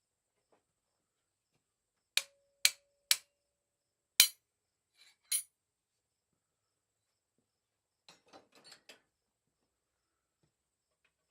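Hammer striking steel: three sharp ringing blows about half a second apart, then two more, the last one lighter, followed by a few faint clinks near the end.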